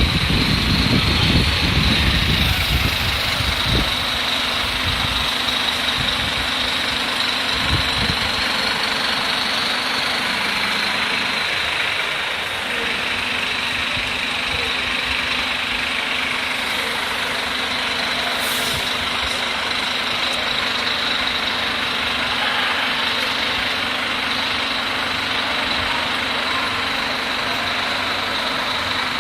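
Scania diesel engine running steadily, with a heavier low rumble for the first few seconds that then settles to an even run.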